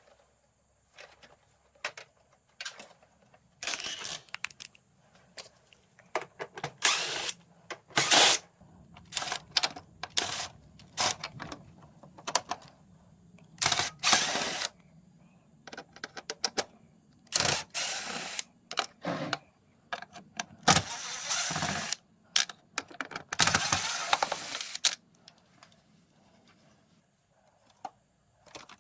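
Irregular clicks, clinks and short scraping sounds of hand work on a Samsung Wind-Free floor-standing air conditioner being taken apart: tools, screws and parts being handled.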